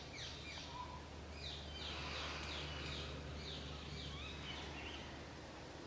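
Faint outdoor ambience with a bird singing a series of quick down-slurred notes from about a second and a half in, over a steady low hum.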